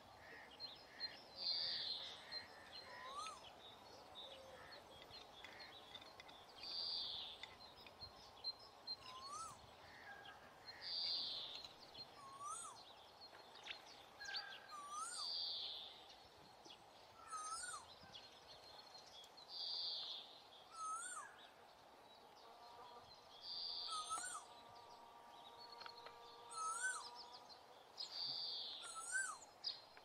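Birds calling over and over in a regular pattern, fairly faint: a short rising-and-falling note, a brighter call and high thin chirps, repeating every few seconds.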